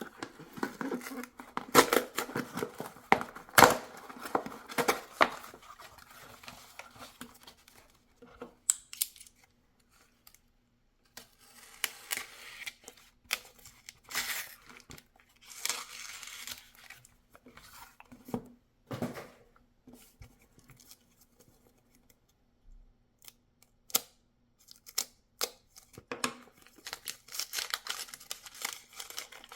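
Knife packaging being opened by hand: tearing, rustling and crinkling with scattered sharp clicks and knocks, and a quieter pause around twenty seconds in.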